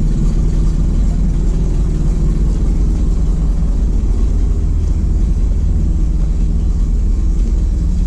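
Ford F700 truck's 370 four-barrel V8 petrol engine running steadily at low revs while driving the spreader's hydraulic pump. The owner thinks the engine speed is too low to turn the spinner and web chain properly.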